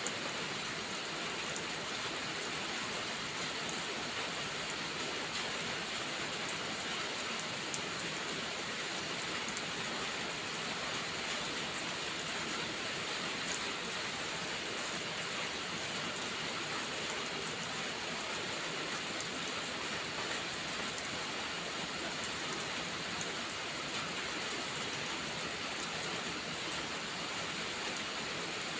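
Steady rain falling and pattering on surfaces, an even hiss with scattered small drop ticks.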